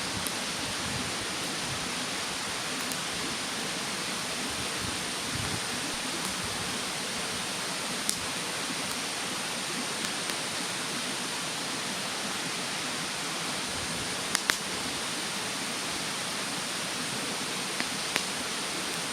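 Steady rush of a mountain stream with a wood fire crackling over it: a handful of sharp, isolated pops about eight, ten, fourteen and eighteen seconds in.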